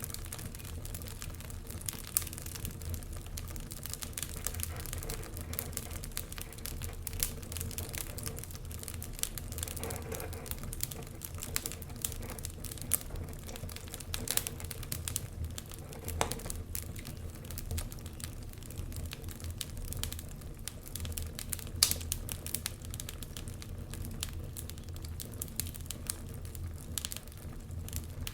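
Wood fire crackling in a fireplace: a steady stream of irregular small pops and snaps over a low rumble, with a sharper loud pop about 22 seconds in.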